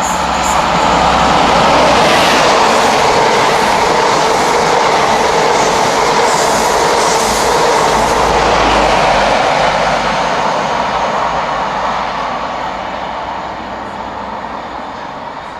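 An InterCity 125 High Speed Train passing at speed: a loud rush of wheel-on-rail noise that builds over the first couple of seconds, holds, then slowly fades as the train draws away.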